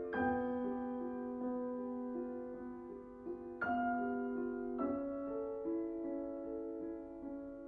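Slow solo piano music: held notes and chords that ring and fade, with new chords struck near the start, about three and a half seconds in, and just under five seconds in.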